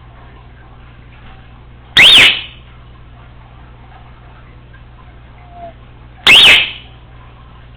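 Congo African grey parrot giving two very loud, short whistled calls about four seconds apart, each sweeping sharply up in pitch and then dropping back.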